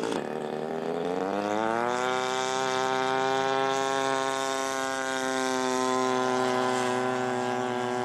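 Engine of a radio-controlled scale Corsair opening up for takeoff. Its pitch climbs over the first couple of seconds, then holds steady at high revs.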